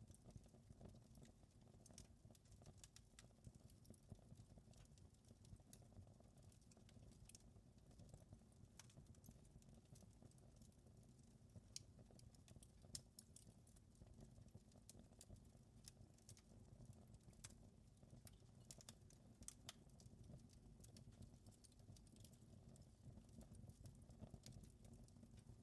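Wood fire crackling in a fireplace: faint, irregular sharp pops and snaps over low, steady noise.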